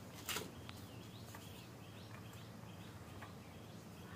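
Faint chirping of small birds over low background noise, with one sharp click a moment in.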